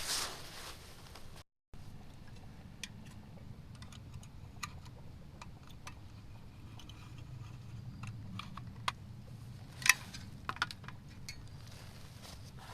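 Scattered light clicks and clinks of small hard objects being handled, over a low steady hum; the sharpest click comes near the end.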